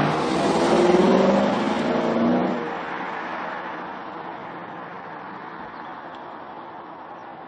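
Lexus RC F's 5.0-litre V8 exhaust with an aftermarket exhaust system, loud for the first two and a half seconds with its pitch falling, then fading away steadily.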